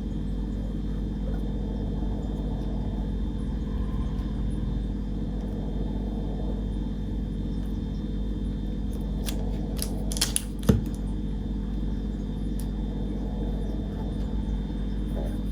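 Steady low electrical hum of room tone, with a few short clicks and one sharper knock about ten seconds in.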